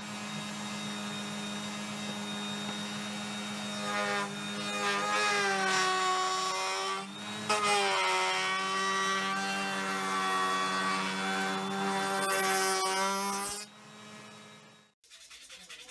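An electric power tool running while it works wood, its motor pitch dipping and shifting as it takes load. Near the end it is switched off and winds down.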